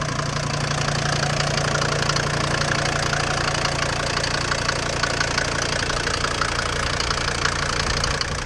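Mercedes G-class 290GD 2.9-litre five-cylinder turbo diesel running steadily, with diesel knock.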